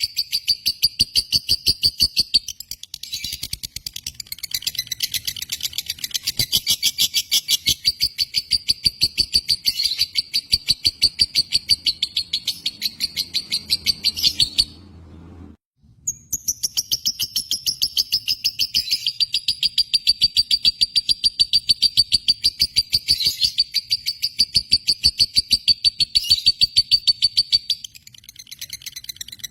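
Lovebird chattering in a long, rapid run of high chirps, several a second, that stops for about a second around the middle and then starts again.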